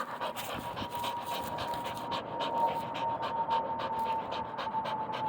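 A dog panting hard in a quick, even rhythm of about three breaths a second, worn out from running after a Frisbee. A thin steady tone sounds faintly underneath.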